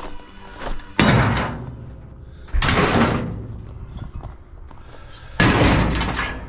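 Pieces of scrap metal thrown onto a load, landing in three loud crashes about a second or two apart, each dying away over about a second.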